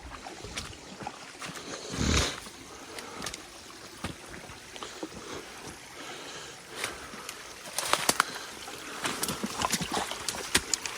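A small spring-fed stream trickling steadily, with a brief rustling swell about two seconds in. From about eight seconds in come footsteps crunching and brush crackling, many sharp cracks close together.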